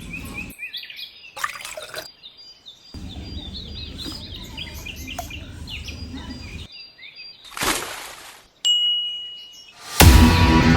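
Small birds chirping repeatedly over an outdoor background, broken by sudden cuts. A brief rushing noise and a short steady high tone follow, then loud electric-guitar rock music starts in the last second.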